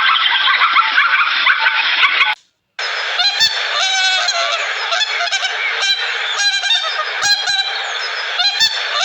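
A flock of geese honking, many calls overlapping, starting after a brief silent break about two and a half seconds in. Before the break there is a different dense, noisy din.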